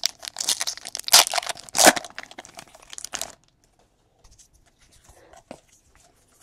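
A trading card pack wrapper being torn open and crinkled, with two louder rips about a second and two seconds in. After about three seconds only faint card handling is left.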